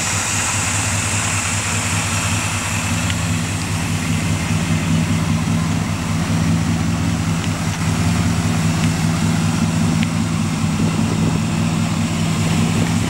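New 350 small-block V8 in a 1981 GMC Sierra 1500 pickup, idling steadily.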